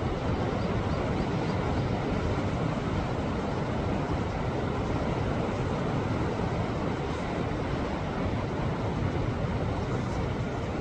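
Sea waves washing against a rocky shore: a continuous, deep wash of surf with no clear breaks between waves.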